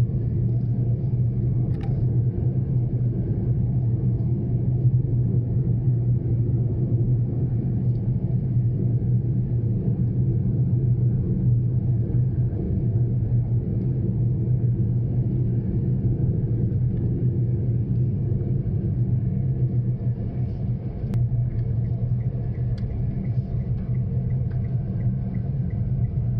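Steady low rumble inside a Daihatsu Mira Cocoa kei car, the engine and road noise heard from the cabin. Faint regular ticking comes in near the end.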